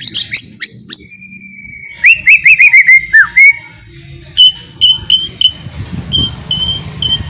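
White-rumped shama (murai batu) singing. First comes a long level whistle, then a rapid run of loud hooked notes falling in pitch, then a string of short, clear, repeated notes.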